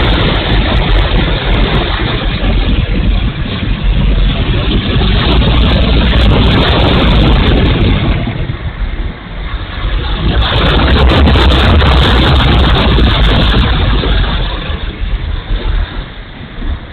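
Strong wind buffeting the microphone in gusts: a loud, deep rush with no clear engine or motor note, easing for a moment about eight seconds in and dying down near the end.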